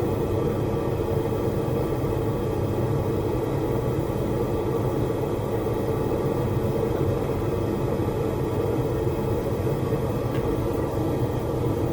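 Blacksmith's forge running with a steady, even rumble.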